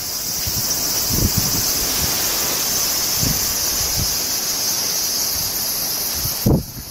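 Steady high-pitched drone of insects outdoors, with a few dull knocks now and then. The drone cuts off suddenly near the end.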